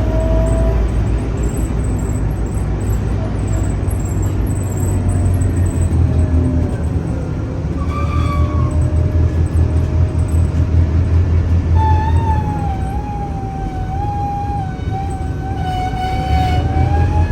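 Scania K310UA city bus under way: a steady low engine drone with whining driveline tones that glide up and down as the bus speeds up and slows. A stronger, higher whine sets in about two-thirds of the way through and holds, wavering a little.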